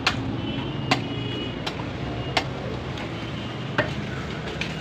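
A butcher's cleaver chopping beef, sharp knocks on the meat and block about six times at an uneven pace over a steady background noise.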